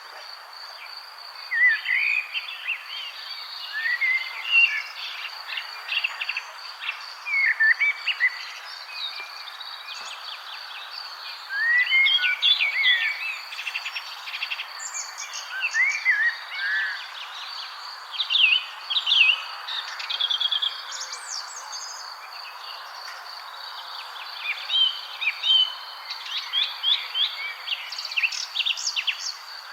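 Several songbirds chirping and trilling in short, repeated phrases over a steady high-pitched insect drone.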